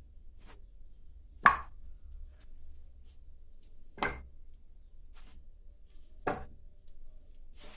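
Split oak firewood logs knocking against each other as they are stacked: three sharp wooden knocks about two and a half seconds apart, with faint small clatter between.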